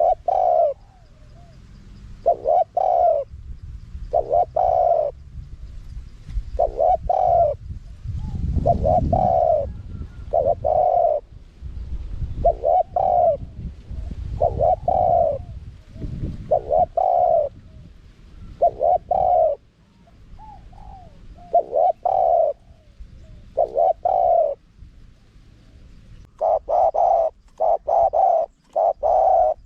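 Spotted dove cooing repeatedly: short coo notes in phrases separated by pauses, with a quicker run of notes near the end. A low rumble sits underneath during the first half.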